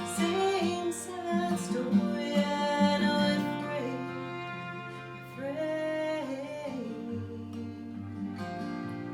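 Live acoustic folk song: acoustic guitar playing under sung vocals, with long held sung notes.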